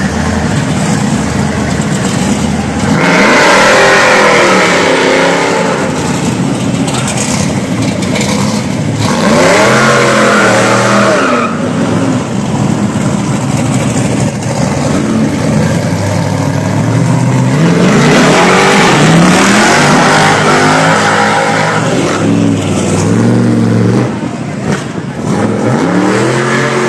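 Car engines revving hard with loud exhausts as cars pull away, in repeated surges that rise and fall in pitch.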